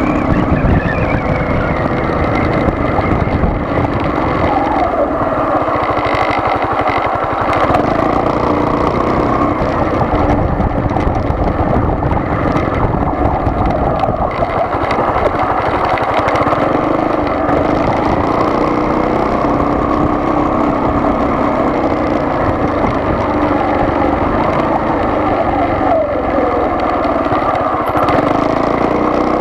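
A car being driven: steady engine and road noise that goes on without a break.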